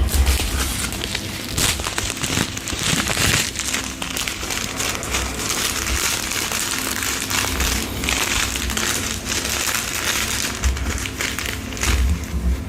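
Close-miked crinkling and crackling with many small clicks, and a few low thumps near the end.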